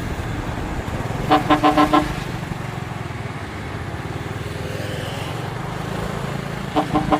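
Heavy truck's diesel engine running steadily under load. A horn sounds a quick run of about five short toots about a second in, and another run of short toots near the end.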